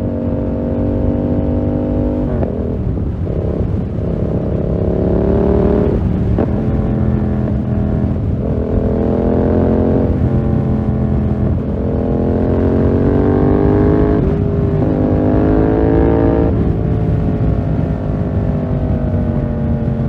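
2020 Yamaha MT-07's 689 cc parallel-twin engine running through a full SC-Project 2-1 exhaust, loud and raspy, repeatedly climbing in pitch under throttle and dropping back about five times, as with gear changes while riding.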